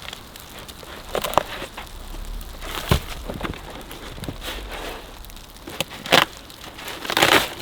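Irregular crunching and crackling from a person moving about in snow-covered woods, with a louder burst of crackling near the end.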